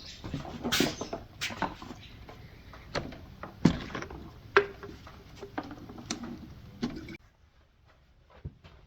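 Irregular clicks, taps and light scrapes of small metal parts being handled and worked on by hand, with a few sharper knocks; the sounds stop abruptly about seven seconds in.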